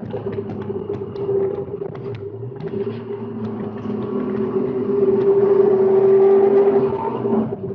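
Inside the cabin of a BMW E46 race car, its straight-six engine running hard under load. The revs drop about two seconds in, then climb and get louder through the middle, with a brief break near the end as it shifts.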